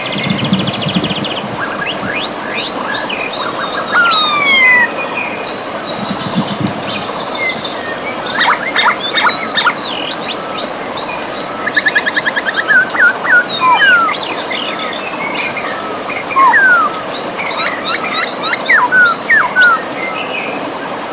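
Several birds singing, a mix of quick down-slurred whistles, chirps and rapid trills, over the steady rush of river water.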